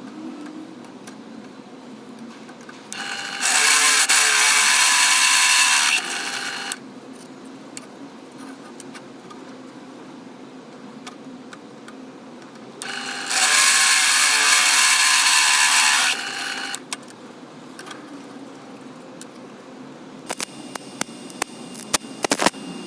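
Home-made belt grinder driven by an angle grinder, run in two short bursts of about two and a half seconds each, loud and cutting off suddenly. Light clicks and knocks come near the end.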